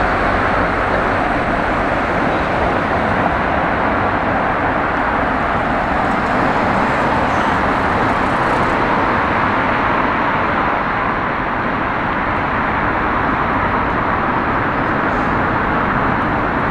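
Steady city street traffic noise: a continuous wash of passing vehicles with no single car standing out.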